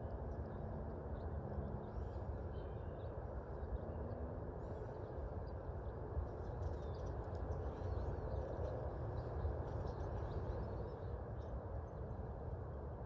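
Small birds chirping faintly now and then over a steady low background rumble.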